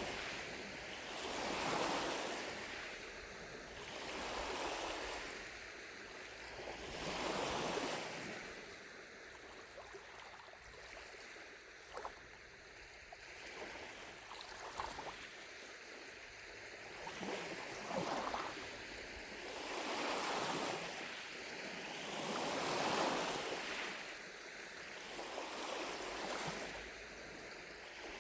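Small lake waves lapping on the shore, a soft wash rising and falling every two to three seconds. There is a calmer stretch midway with a few light splashes, then the washes build again.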